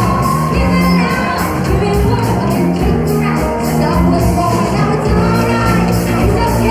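A disco-funk band playing with a singer, over a steady, evenly repeating drum beat and a sustained bass line.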